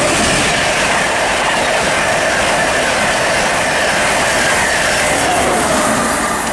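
InterCity 225 high-speed electric train, a Class 91 locomotive with Mark 4 coaches, passing through at speed. A loud steady rush of wheels on rail and air, with faint whining tones that slowly fall in pitch, easing off near the end.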